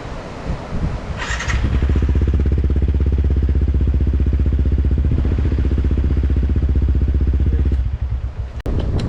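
Yamaha WR155R's single-cylinder four-stroke engine running at a steady, constant note for several seconds, after a brief high-pitched burst about a second in. Near the end the engine note falls away and a couple of sharp clicks are heard.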